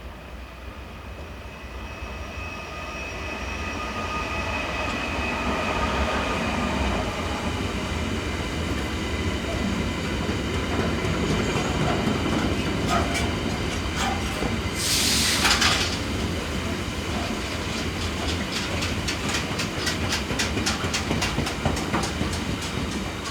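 Freight train hauled by a Class 256 electric locomotive passing, its rumble and motor whine building over the first few seconds. From about halfway, the wagons' wheels clack in a steady rhythm over the rail joints, with a brief loud hiss about 15 seconds in.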